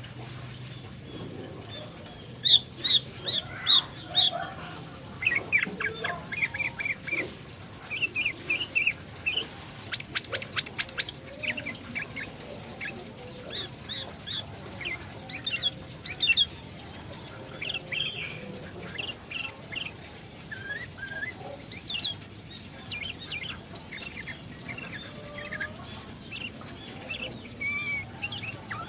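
Sooty-headed bulbul (kutilang) singing: phrase after phrase of short, loud, chirpy whistled notes, with a quick rattling run of clicks about ten seconds in.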